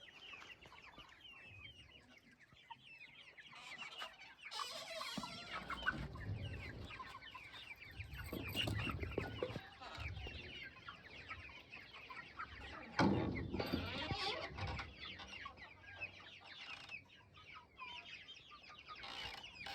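A flock of young chickens, about a month old, peeping and clucking continuously in many overlapping short chirps, with a few low bumps, the loudest about two-thirds of the way through.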